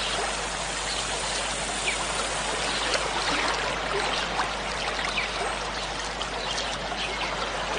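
Waterfall: a steady rush of falling water, with small splashes standing out here and there.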